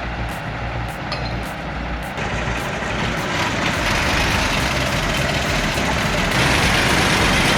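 Heavy diesel engines of a T170 crawler bulldozer and a stuck Kamaz truck running during a sand recovery. There is a steady low rumble, and it grows louder and harsher from about three seconds in.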